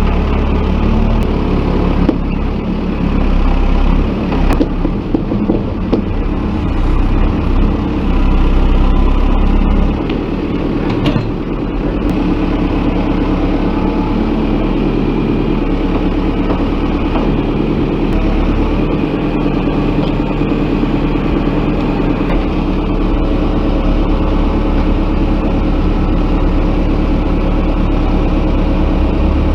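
Heavy-equipment diesel engine running steadily, its level rising and falling, with a few knocks.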